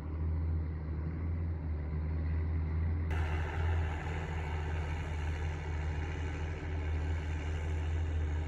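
Diesel engine of heavy farm machinery running steadily with a deep, even hum. About three seconds in it turns louder and harsher.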